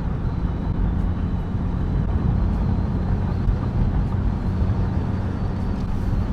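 A car driving steadily along the road: an even engine drone with tyre and road rumble.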